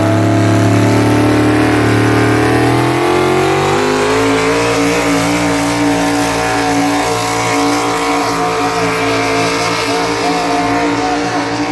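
Engine of a pulling vehicle running hard at high revs under load; its pitch climbs over a couple of seconds early on, then holds steady.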